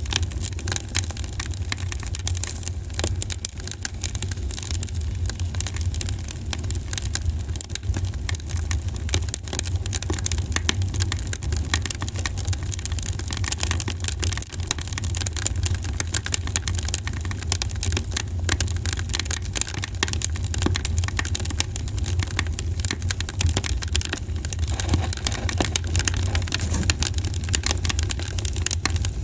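Campfire crackling, with a dense, irregular run of small sharp pops and snaps over a steady low rumble.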